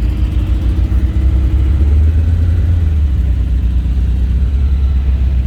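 Car engine running at idle, a steady low rumble.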